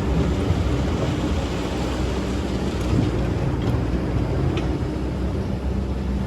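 Excavator's diesel engine running steadily, with a couple of faint clicks midway.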